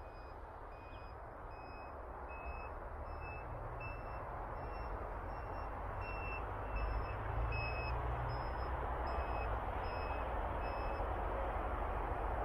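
Wind rushing over the microphone, getting louder. Over it, a series of short, high electronic beeps about three every two seconds, drifting slightly in pitch, stops near the end.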